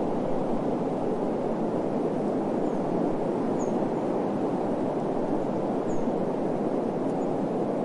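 Steady low rushing noise of desert wind, even in level throughout. A few faint, short high chirps sound over it, around the middle and again about six seconds in.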